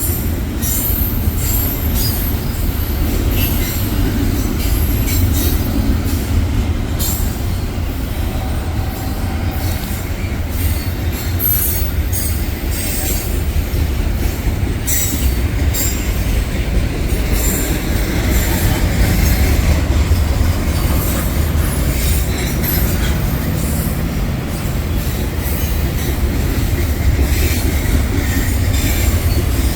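Railroad cars rolling past close by: a loud, steady, heavy rumble with quick clicks from the wheels and faint wheel squeal at times.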